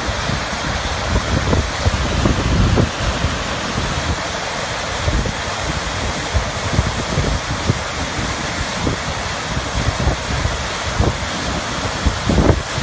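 Rain-swollen creek rushing in flood, a steady wash of water noise, with wind buffeting the microphone in irregular low thumps.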